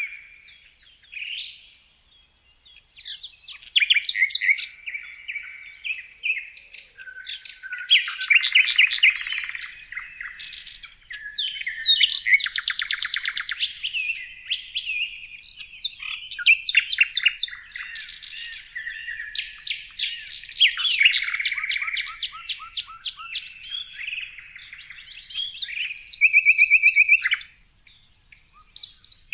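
Songbirds singing and chirping, several overlapping songs and calls with fast, buzzy trills, broken by short pauses.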